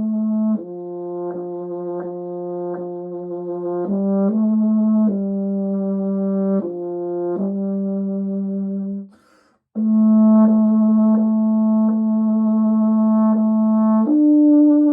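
A solo brass instrument playing a slow hymn tune in long, sustained notes, one note at a time, with a short pause for a breath about nine seconds in.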